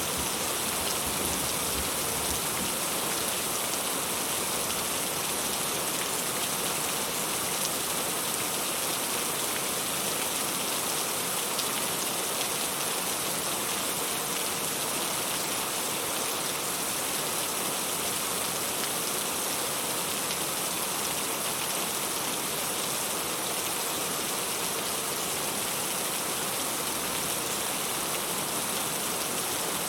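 Steady, heavy rain falling on a surface: a dense, even hiss of raindrops that does not let up.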